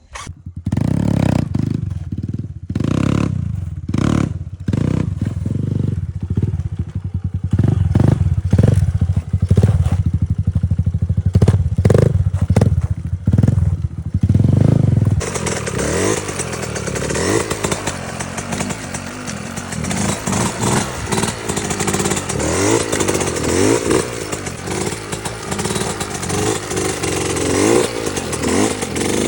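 Small dirt-bike engine running and revving up and down repeatedly. For about the first half there is heavy low rumbling with many short thumps, then the sound changes abruptly to a fuller engine note with repeated rises and falls in pitch.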